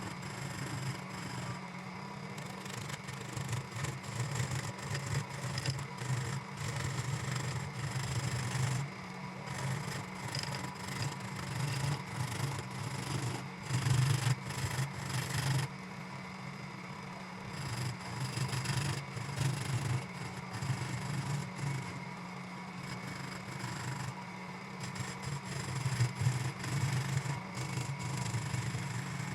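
Electric woodworking tool running steadily while a tool scrapes and rubs against wood, the scraping swelling and easing off again and again.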